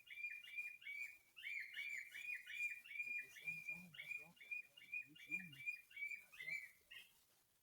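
A bird calling a fast run of short, high, evenly repeated chirps, about three to four a second, that stop near the end.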